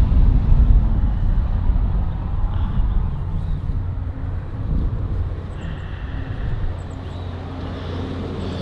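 A vehicle passing on the nearby road, its low rumble loud at first and slowly fading away.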